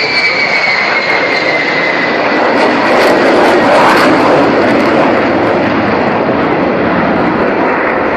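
A NATO E-3A AWACS, a four-engined Boeing 707-based jet, flying past: a high engine whine falls in pitch over the first couple of seconds, the engine noise is loudest about three to four seconds in, then settles into a steady rumble as it moves away.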